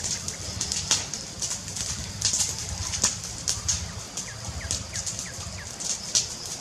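Fireplace fire crackling with irregular sharp pops over a low rumble. A bird gives a quick run of five short falling chirps around the middle.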